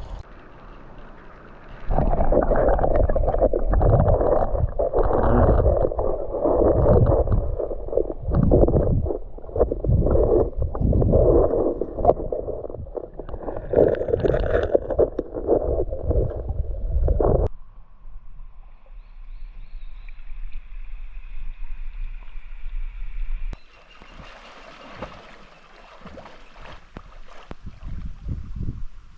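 Water sloshing and splashing heavily and irregularly, as clothes are washed by hand in river water. It stops abruptly about two-thirds of the way in and gives way to quieter water sound with a faint steady high tone.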